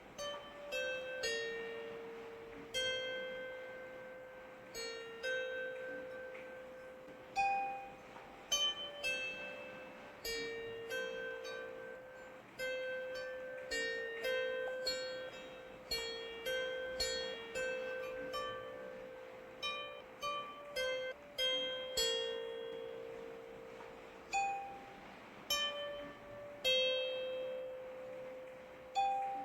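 A slow, gentle melody of plucked string notes, one or two at a time, each struck sharply and left to ring out, over a faint steady hiss of rain.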